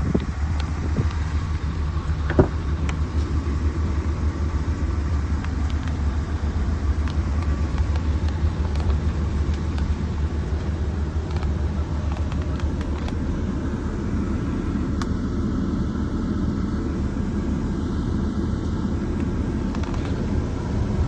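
Chevrolet Silverado 3500's 6.0-litre V8 idling steadily, with a single sharp click about two and a half seconds in.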